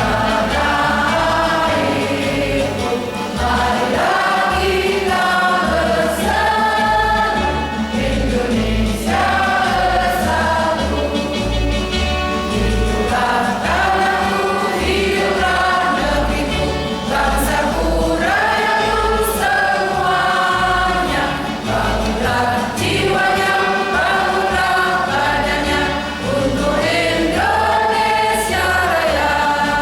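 A mixed choir singing a slow song in several parts, with long held notes.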